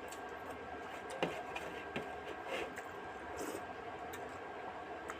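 Close-up eating sounds: small wet clicks and smacks of chewing fish curry and rice, with a sharper click about a second in, over a steady background hum.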